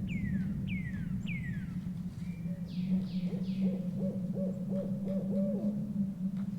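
Owl hooting in a quick run of short low notes, with songbird calls: three descending whistled notes at the start and three brief harsher calls about three seconds in, over a steady low drone.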